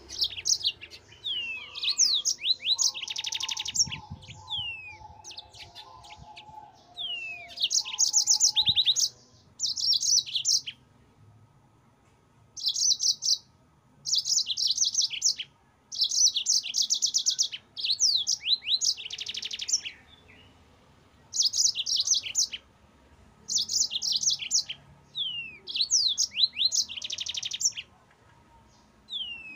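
Yellow-fronted (Mozambique) canary singing a high-pitched rolling song: bursts of rapid trilled notes mixed with short downslurred whistles, in phrases a second or two long with brief pauses between.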